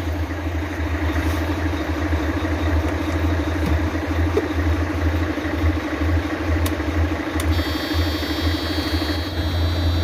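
Mercedes-Benz Actros truck's diesel engine idling steadily after the air filter change. A high steady tone comes in about seven and a half seconds in.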